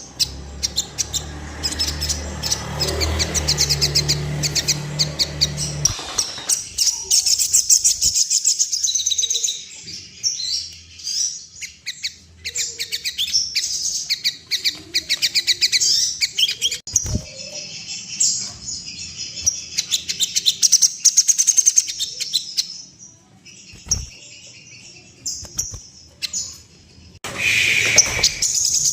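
Crimson sunbird (sogon) singing: rapid, high-pitched chattering trills and chirps, used as a lure song to bring a kept sogon into excited display and song. A low hum runs under the first six seconds.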